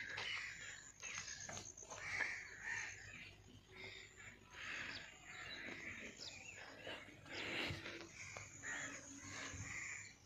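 Birds calling, a string of short calls, with scattered clicks.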